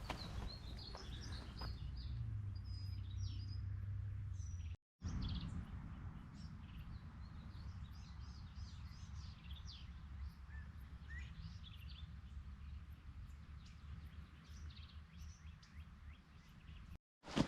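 Small birds chirping and calling in short notes over a steady low rumble, broken twice by a sudden dropout to silence, about five seconds in and near the end.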